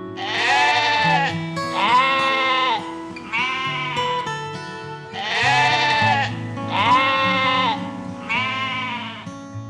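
Six short animal calls, each rising then falling in pitch, spaced about a second and a half apart with a longer pause after the third, over background music.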